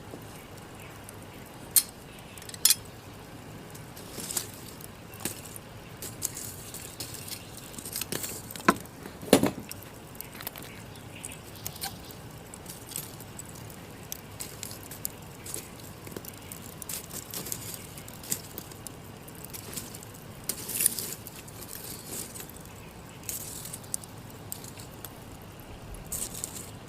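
Wood embers of a burned-down campfire crackling and ticking over a low hiss, with scattered sharp pops, a few of them much louder.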